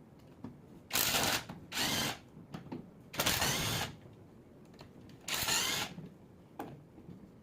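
Power tool running in four short bursts of about half a second each, with faint clicks between the bursts.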